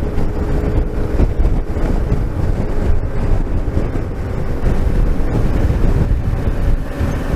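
Motorcycle engine running on the road, with heavy wind rushing over the microphone.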